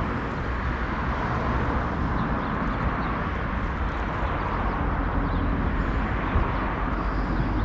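Steady rushing noise of vehicle traffic with a low rumble, even throughout, with no distinct events.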